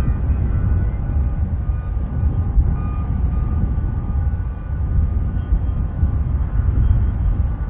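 Strong wind buffeting the microphone, a gusting low rumble, with a faint steady whine of jet engines above it.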